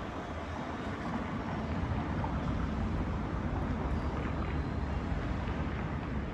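Steady rumble of city traffic, with wind blowing over the microphone.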